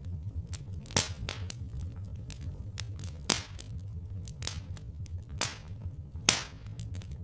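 Wood fire crackling with irregular sharp pops, the loudest about a second, three seconds and six seconds in, over a steady low rumble.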